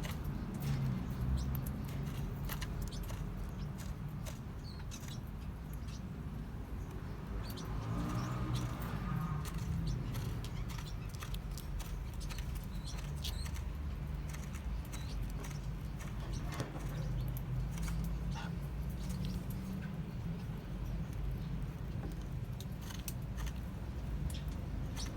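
Forpus parrotlets, most likely the chicks, giving scattered short high squeaks and chirps with small clicks, over a steady low rumble.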